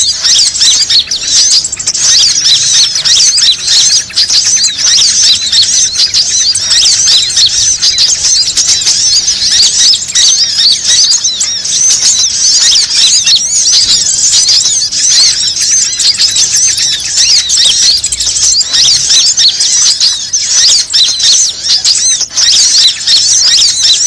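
Bird-lure call: a dense, unbroken stream of rapid, high-pitched chirps and squeaks like many small birds calling at once, played loud to draw birds in.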